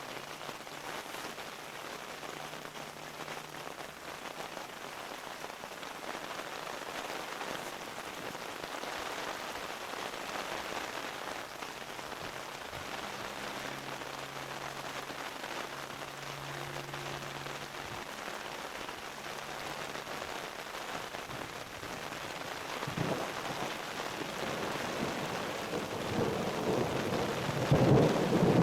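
Steady rain falling, with a low rumble of thunder building over the last few seconds and loudest near the end.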